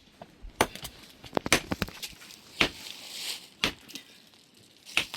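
Irregular sharp knocks and cracks, about eight in five seconds, with a crunching rustle around the middle.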